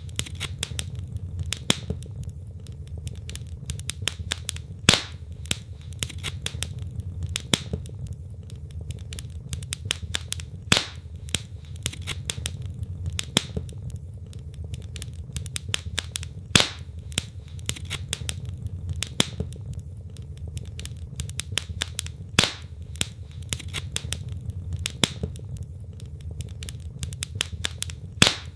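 Wood logs burning in a fireplace, crackling: constant small snaps over a steady low rumble of flame, with a louder pop about every six seconds.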